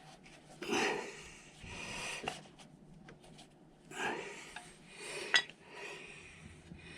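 Scooter variator parts (washers and pulley pieces) being handled and slid onto the crankshaft: metal scraping and rubbing in short bouts, with a few sharp clinks.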